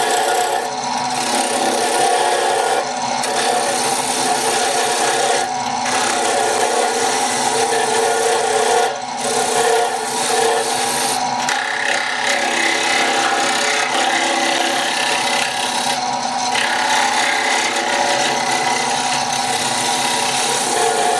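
Wood lathe running steadily with a tool scraping or abrading the spinning wood. The scraping cuts out briefly about half a dozen times as the tool comes off the work, while the motor hum carries on.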